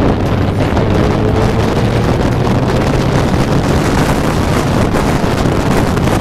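Wind roaring over the rider's microphone on a Suzuki Hayabusa at highway speed, with the inline-four engine running steadily underneath. A faint tone rises gently during the first few seconds.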